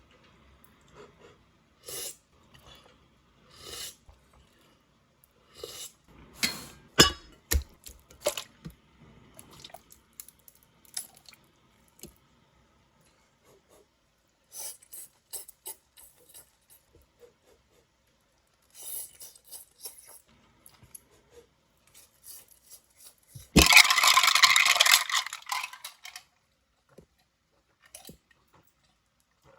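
Scattered clinks, taps and scrapes of utensils and tableware, with a few louder knocks about six to eight seconds in, and a loud rushing hiss lasting about two and a half seconds near the end.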